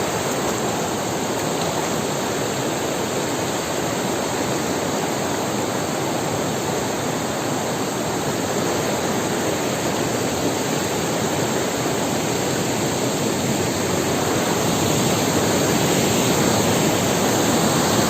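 Waterfall pouring in a steady rush of falling water, close to the microphone, growing a little louder near the end.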